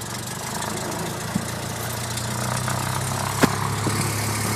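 Cessna 172P's four-cylinder Lycoming engine idling steadily just after a start, growing slowly louder. A sharp click about three and a half seconds in, and a fainter one earlier.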